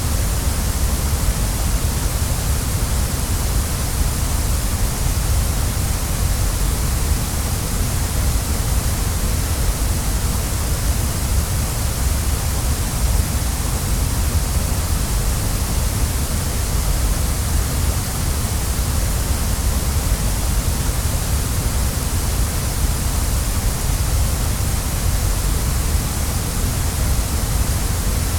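Waterfall: steady rushing of falling water, an even hiss with a deep rumble underneath, unchanging throughout.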